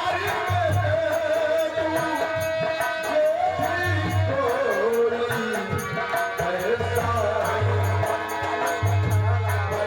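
Live Indian folk music of the Nautanki stage: a wavering, ornamented melody runs throughout, over repeated deep drum strokes.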